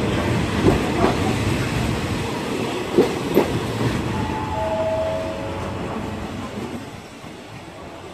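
Passenger train carriages rolling slowly past as the train pulls into the station, wheels clacking over rail joints. A few short squeals come about halfway through, then the rumble fades.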